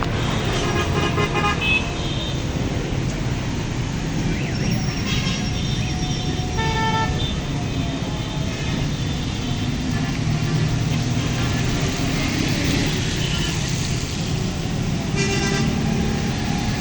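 Road traffic running steadily, with vehicle horns honking several times: near the start, around the middle and again near the end.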